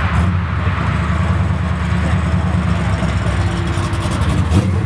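A car engine running at a steady idle close by, a deep low rumble with no revving.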